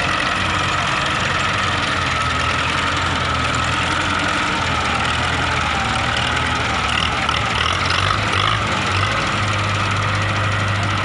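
Massey Ferguson tractor's diesel engine running steadily at a low, even pitch.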